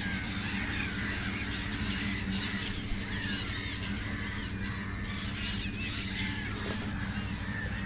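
A huge flock of birds calling all at once in a frenzy, many short overlapping calls, over a steady low hum.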